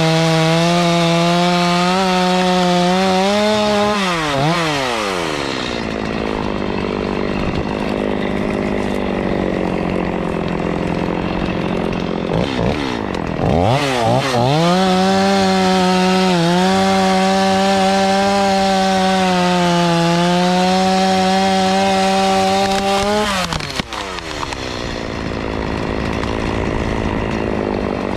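Chainsaw held at high revs, then dropping back toward idle a few seconds in. It revs up again to the same steady high pitch for about ten seconds in the middle, eases off, and revs up once more right at the end.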